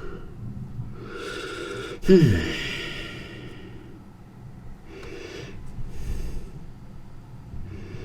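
A man breathing and sighing close to the microphone: several short audible breaths, and about two seconds in a sharp click followed by a falling voiced sigh, the loudest sound.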